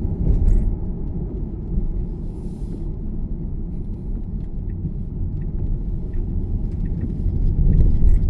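Road and tyre noise inside a Tesla's cabin on a rain-soaked motorway: a steady low rumble with no engine note, swelling louder near the end.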